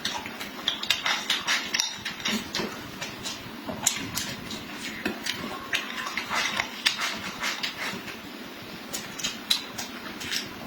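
Close-miked eating sounds: wet chewing and lip smacks in quick, irregular clicks, with utensils now and then clinking against a dish.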